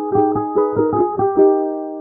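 Background music: a piano plays a brisk melody of short notes, ending on a note left ringing near the end.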